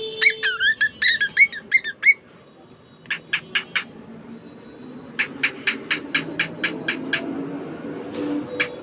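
Pet bird calling: a quick run of chirps that bend up and down in pitch, then two runs of short, sharp calls repeated about four to five times a second.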